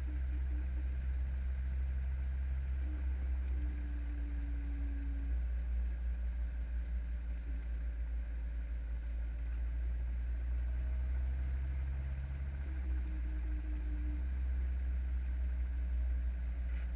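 Helicopter engine and rotor running, heard from inside the cabin: a steady low drone with a fainter hum above it that shifts slightly in pitch a couple of times.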